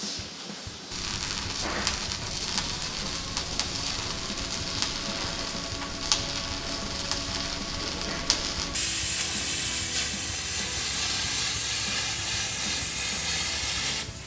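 Shielded metal arc (stick) welding: the electrode's arc crackling and sizzling with sharp pops. About two-thirds of the way through it changes abruptly to a louder, steadier hiss, which stops just before the end.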